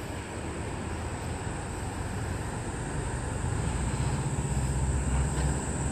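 Outdoor background noise with a low rumble that grows louder in the second half, under a constant high-pitched hum.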